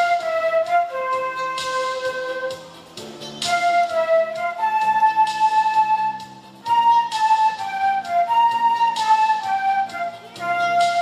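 Children's flute ensemble playing an animation theme: a melody of held notes over a lower sustained accompaniment, with short breaks between phrases about three and six and a half seconds in.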